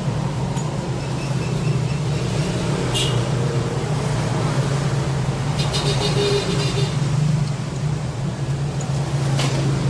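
Steady low drone with a few sharp clicks.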